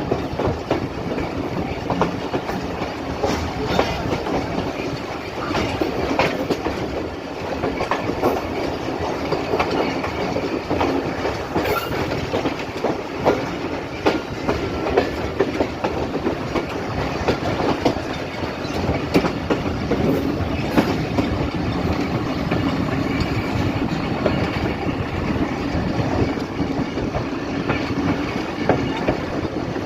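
A passenger train running along the track: a steady rumble broken by frequent, irregular clicks and knocks of the wheels passing over the rail joints.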